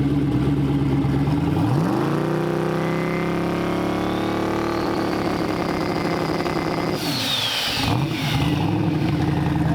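Twin-turbo 5.3 LS V8 idling, then revved hard about two seconds in and held high while a turbo whistle climbs and holds. At the throttle's release, about seven seconds in, there is a rush of venting air, the whistle falls away and the engine settles back to idle.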